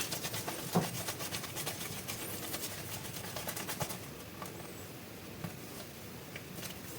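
Crisp crinkling of plastic clay packaging being handled and opened, a dense run of small crackles for about four seconds that then thins out to scattered ones.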